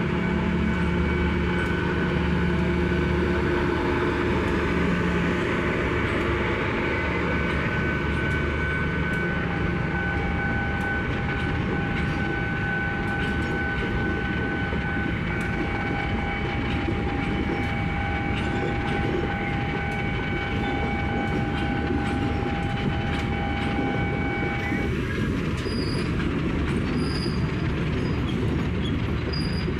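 KA Serayu passenger train arriving, its cars clattering steadily over the rails. Steady high whining tones run with it and cut off about 25 seconds in.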